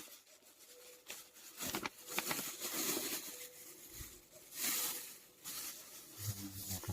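Irregular rustling, scraping and light clicking of hands handling food-preparation items such as the prepared vegetables and their container.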